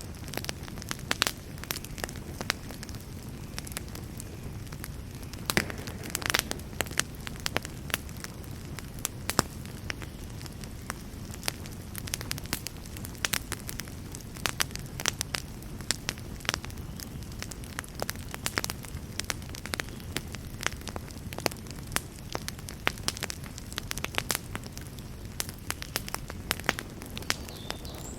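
Wood fire burning in a fireplace: a steady low rumble of flame under frequent irregular sharp crackles and pops from the burning wood.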